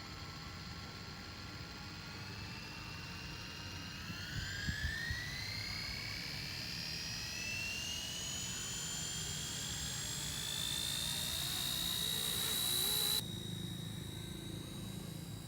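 Whine of the XK K124 brushless RC helicopter's motor and rotors, climbing steadily in pitch as it spools up. About thirteen seconds in, a hiss cuts off abruptly and the whine settles to a steady pitch. A few light clicks sound around four to five seconds in.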